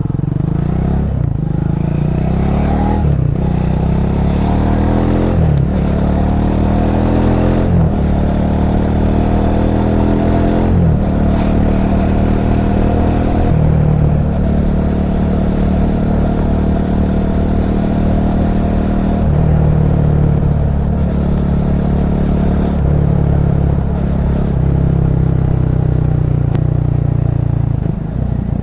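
Motorcycle engine accelerating up through the gears, its pitch climbing and dropping back with each upshift about five times in the first eleven seconds. It then runs at a steadier pitch while cruising, with a few changes in throttle.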